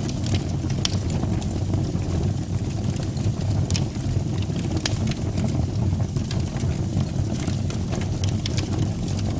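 Fire burning in a fireplace: a steady low rumble from the flames, with scattered sharp crackles and pops throughout.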